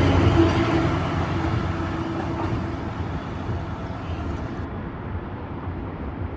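Metro-North commuter train running past and fading away, with a steady tone and rail rumble dying down over the first few seconds.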